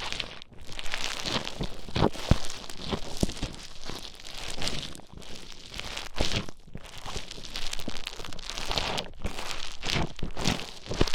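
Play Foam modelling beads squeezed and mixed right against the microphone: a continuous dense crackling and squishing, full of small irregular clicks.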